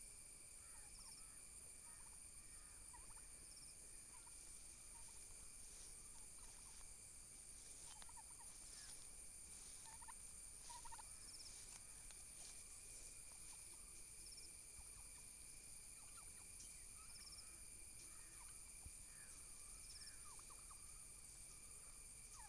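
Domestic turkeys calling faintly, with short calls scattered throughout, over a steady high-pitched hum.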